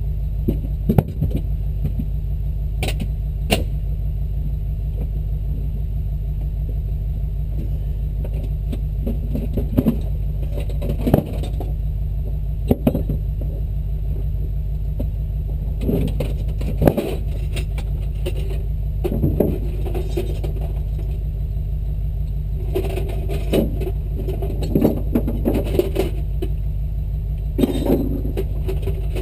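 Jeep engine running in a steady low drone, with scattered knocks and clunks over it, the sharpest about a second in and again near the middle.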